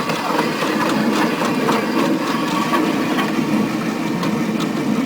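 Small backyard electric tram running on its track, driven by converted electric lawnmower motors: a steady mechanical clatter of gears and wheels with irregular clicks and rattles.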